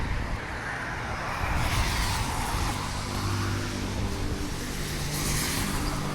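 Motor vehicle noise: a steady low engine hum with swells of road noise about two and five seconds in.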